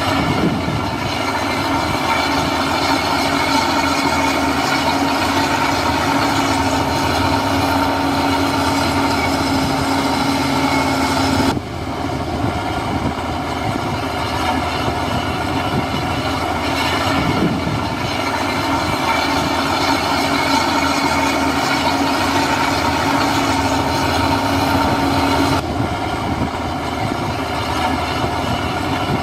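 Heavy earthmoving machinery running: steady diesel engine noise with a constant whine over it. The sound changes abruptly about twelve seconds in and again near the end.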